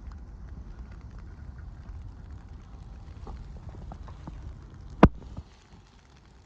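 Blizzard ambience on a street: a steady low rumble with scattered light ticks. A single sharp knock comes about five seconds in, and the rumble drops off just after it.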